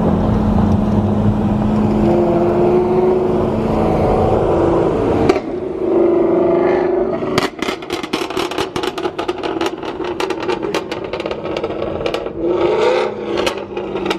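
Car engine running at a steady pitch. From about seven seconds in, a rapid series of sharp crackles comes over it.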